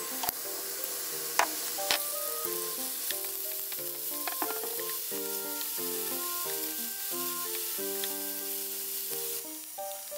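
Enoki mushrooms, diced carrot and sliced beef sizzling steadily in an oiled frying pan as they are stirred, with a few sharp taps of the wooden utensil on the pan in the first half. The sizzle thins near the end. Light background music with plucked notes plays over it.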